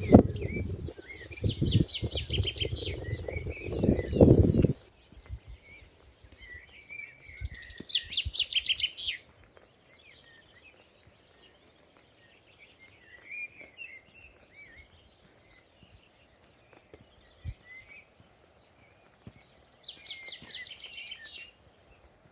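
Songbirds singing: a fast, high trill comes three times, with softer chirps and warbles in between. For the first five seconds a heavy low rumble lies under the song and stops abruptly.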